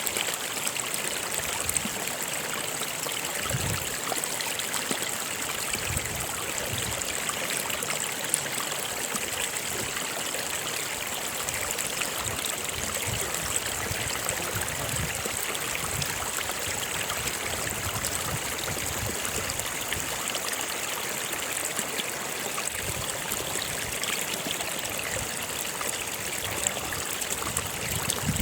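Stream water flowing steadily: an even rushing hiss with occasional low gurgles.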